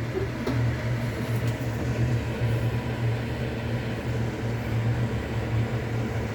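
Steady low mechanical hum of kitchen appliances, with the stovetop running at its maximum setting while water heats in a pot.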